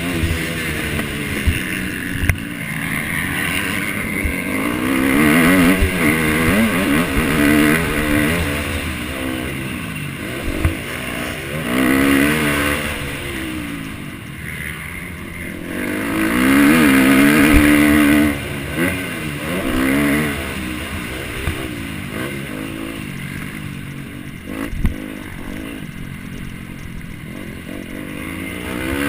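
Motocross bike engine revving up and easing off again and again, its pitch climbing with each burst of throttle, with a few sharp knocks along the way.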